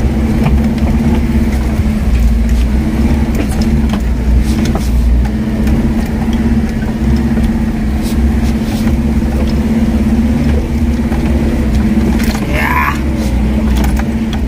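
Off-road 4x4 engine running at steady low revs, a constant hum over a low rumble, with a few short knocks. A brief high rising sound comes near the end.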